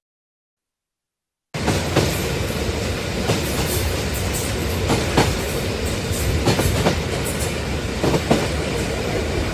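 Train running on the rails: a steady rumble with irregular sharp clacks of the wheels over rail joints. It cuts in suddenly about a second and a half in, after dead silence.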